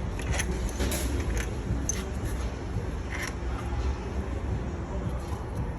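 Scattered light metallic clicks and scrapes over a steady low rumble, as of tools and parts being handled while a car engine is removed.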